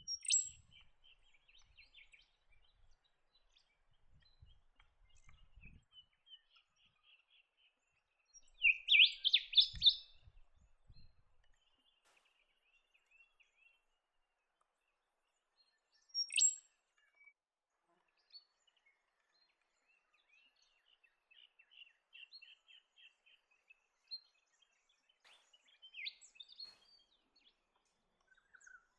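Speckled warbler calling: bouts of rapid, high twittering notes, loudest about nine seconds in, with a single sharp note a few seconds later and more chattering runs near the end.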